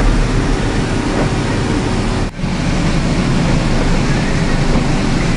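Farm tractor engine running steadily, heard from inside the cab, with a loud rumble and rattle. The sound cuts out for an instant once near the middle.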